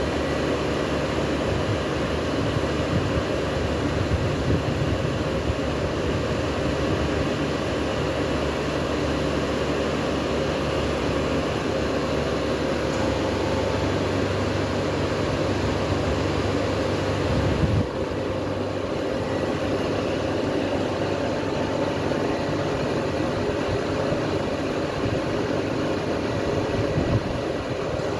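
A regional passenger train standing at the platform, idling with a steady mechanical hum and faint steady tones. About eighteen seconds in, the deepest part of the hum drops away suddenly, as if one of the train's machines cuts out.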